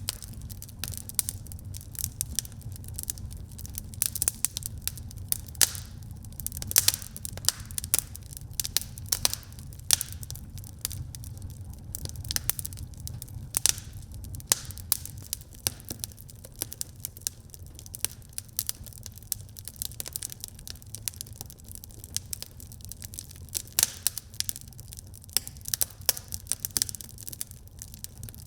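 Wood fire burning in a fireplace: a steady low rumble of the flames with dense, irregular crackles and sharp pops from the burning logs.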